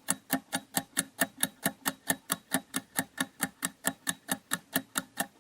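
Countdown-timer sound effect ticking steadily, about five ticks a second, marking the time left to answer a quiz question.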